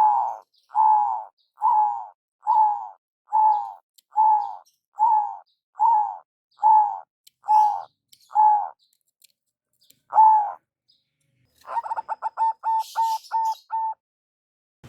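Zebra dove (perkutut) calling: a steady series of about a dozen cooing notes a little under a second apart. After a short pause and one more note comes a quick run of short staccato coos near the end.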